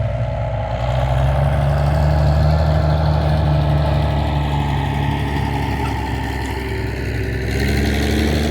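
Tractor engine running at a steady speed, its pitch stepping up slightly about a second in and settling lower near the end.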